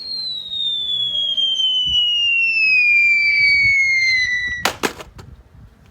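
A long whistle falling steadily in pitch for about four and a half seconds, then cut off by a short crackling bang: the classic falling-bomb whistle and explosion effect.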